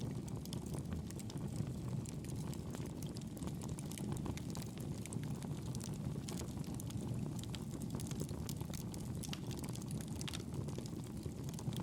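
Campfire burning: a steady low rush of flames under many small, irregular crackles and pops from the burning wood.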